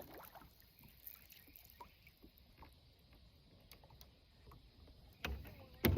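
Faint tapping and handling noises in a kayak, with two sharper knocks near the end.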